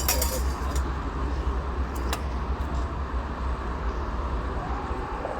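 Steady rumble of road traffic on the toll road, with a couple of sharp clicks near the start and about two seconds in.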